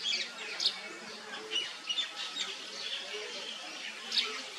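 Small birds chirping: several short, sharp, high chirps scattered through a few seconds.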